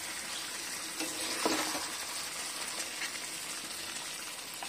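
Chicken pieces sizzling in thick masala gravy in a steel kadai as they are stirred with a metal spoon, a steady frying hiss with a few soft strokes of the spoon.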